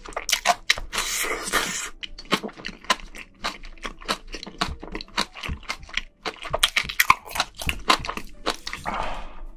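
Close-miked chewing of spicy steamed seafood, with rapid wet mouth clicks and smacks. A longer rush of noise comes about a second in and again near the end.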